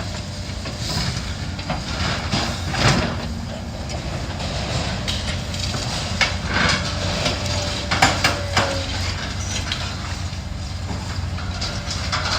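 Heavy demolition machine running steadily, with scattered metal clanks and knocks as steel beams and debris are pulled from the building.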